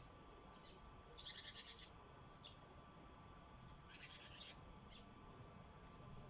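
Sparrows chirping, faint: a few short single chirps and two rapid chattering runs, about a second in and again around four seconds.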